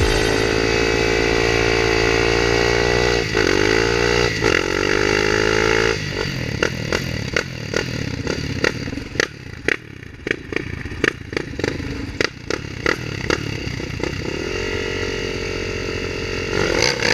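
Dirt bike engine held at high, steady revs while its rear tyre spins in a smoky burnout, the revs dipping briefly twice. About six seconds in the steady note drops away into rough, uneven running broken by a string of sharp pops and cracks, and steady engine running returns near the end.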